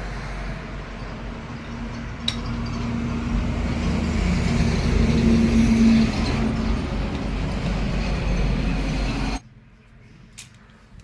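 Steady rumble of a running motor vehicle, cutting off suddenly about nine seconds in, followed by a few faint clicks.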